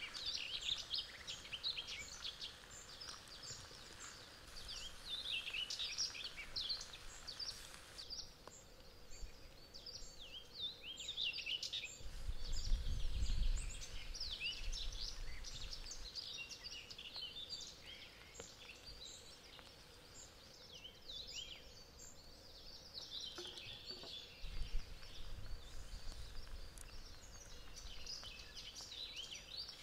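Birds chirping and singing in many short, quick notes throughout, with two spells of low rumble, the louder one about halfway through and a weaker one later.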